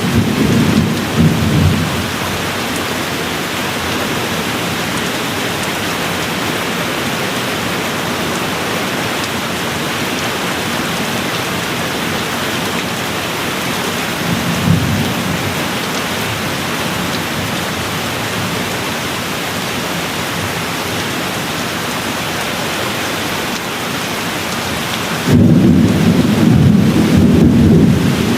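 Steady rain falling, with rumbles of distant thunder: one dying away at the start, a short roll about halfway through, and a louder, longer roll setting in near the end.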